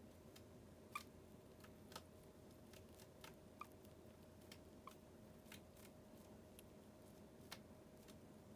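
Faint, irregular light clicks and taps, about a dozen, the sharpest about one, two and seven and a half seconds in, over a low steady room hum.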